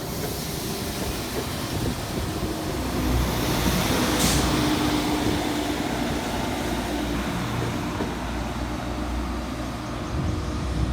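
Passenger train pulling out of the station: a steady low engine drone that swells a few seconds in, with a short sharp high hiss about four seconds in.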